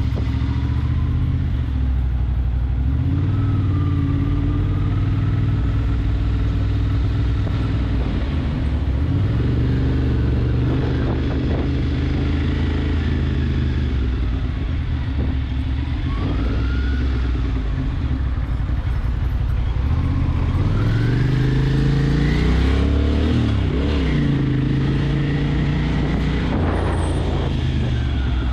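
Motorcycle engine running while being ridden, its revs rising and falling, with a clear climb in revs about twenty seconds in.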